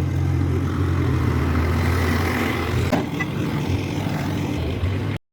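An engine running steadily at a low, even pitch, with a single sharp click about three seconds in.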